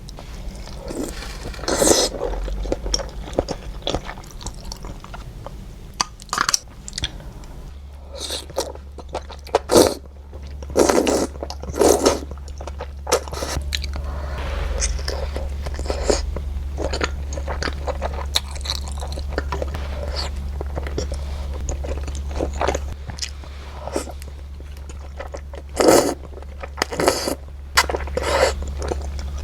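Close-miked mukbang eating sounds: a person chewing and crunching on a bowl of suanlafen (hot and sour glass noodles), with a dozen or so short, loud mouth noises spread through the stretch over a steady low hum.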